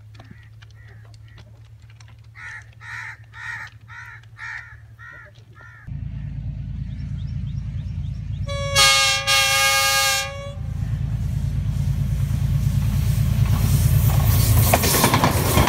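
Birds calling over a quiet background. About six seconds in, a train's low rumble sets in. The train horn sounds for about two seconds, and the rumble keeps growing louder as the train passes close by.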